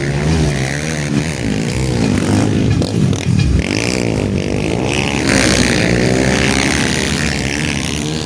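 Several motocross motorcycle engines racing, their pitch rising and falling repeatedly as they rev through the gears.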